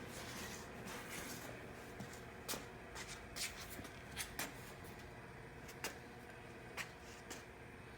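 Faint rustling with about seven short, sharp clicks scattered through the middle, like handling noise.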